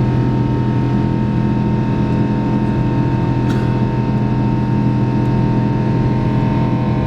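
Boeing 777-200ER jet engines heard inside the passenger cabin: a loud, steady drone with a constant low hum and a thin steady whine.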